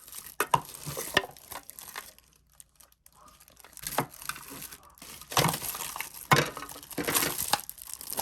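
Packaging crinkling as it is handled and unwrapped, in irregular bursts, with a quiet pause of about a second and a half around two seconds in and busier handling from about five seconds on.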